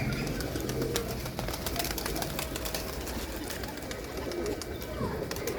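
Domestic pigeons cooing in low calls that recur every second or two, with many short clicks mixed in.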